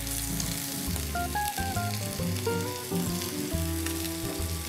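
Bison tenderloin and carrots sizzling in hot oil in a nonstick frying pan, a steady frying hiss, with background music of stepping melody notes over a bass line.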